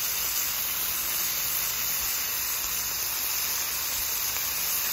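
Onion smashburger patties sizzling steadily in rendered beef fat on a hot Camp Chef flat-top griddle: a continuous, even hiss.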